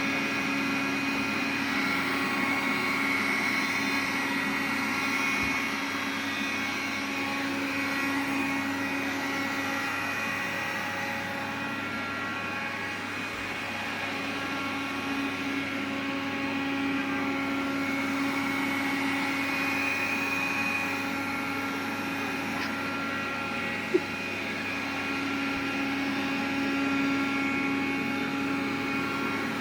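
Xiaomi vacuum cleaner running, a steady motor whine with a hum beneath it that slowly swells and fades. This is the extraneous noise the owner is recording. One sharp click near the end.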